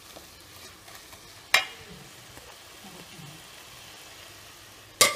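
Sliced onions, tomato and curry leaves frying in oil in an aluminium pot with a faint steady sizzle as they are stirred. A spoon knocks sharply against the pot about a second and a half in, and again, louder, near the end.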